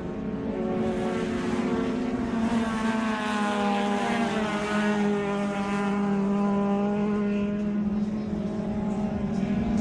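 Engines of classic vehicles running, a steady pitched drone whose higher tones rise and fall slightly.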